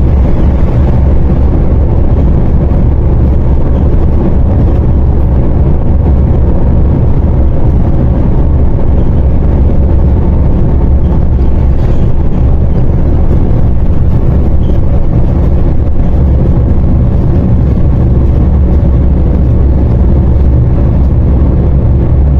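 Cabin sound of a MAZ-104 city bus under way: a loud, steady low drone of the diesel engine and running gear.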